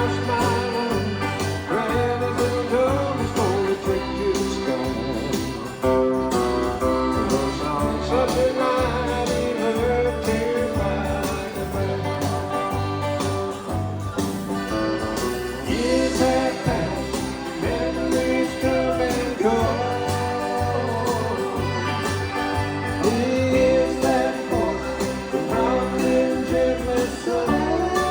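A singer performing a slow song with instrumental accompaniment: long, held vocal lines over a steady bass.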